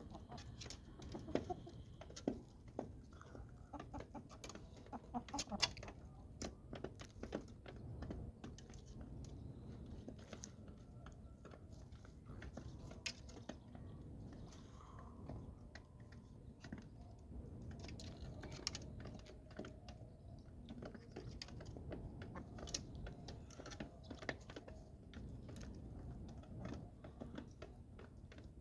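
Chickens clucking, with many short, sharp taps scattered throughout.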